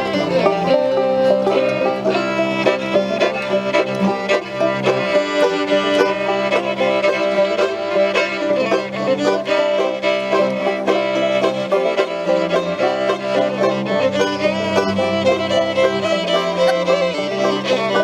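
An instrumental string-band tune with fiddle and banjo, played without singing.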